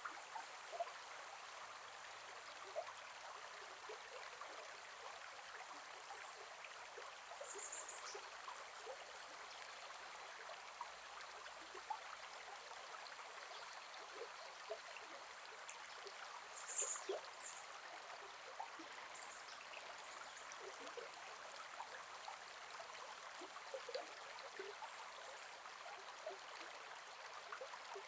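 Gentle forest river: a steady rush of shallow flowing water with small gurgles and plops throughout. A few short high chirps stand out over it, the loudest a little past the middle.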